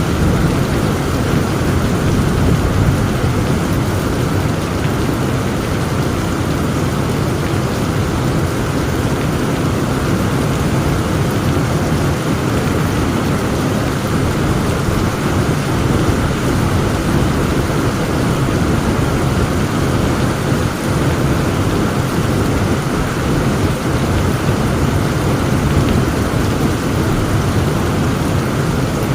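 Heavy rain falling steadily, with a continuous low rumble of thunder underneath and no distinct thunderclap.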